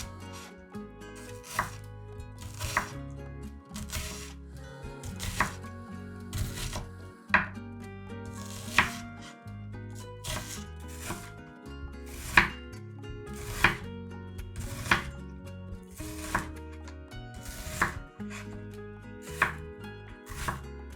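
Knife chopping vegetables on a cutting board: unhurried, uneven cuts, roughly one to two a second.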